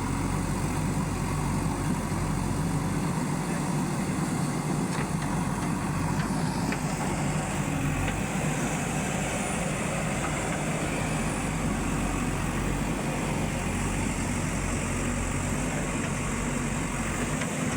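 A heavy machine's diesel engine running steadily.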